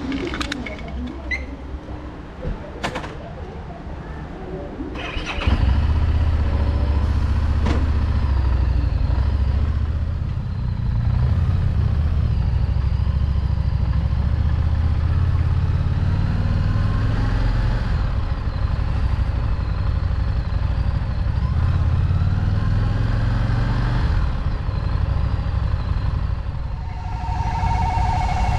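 Harley-Davidson Street Rod 750 motorcycle's V-twin engine starting about five seconds in, after a few knocks, then running steadily with a deep rumble. A two-tone electronic beep sounds near the end.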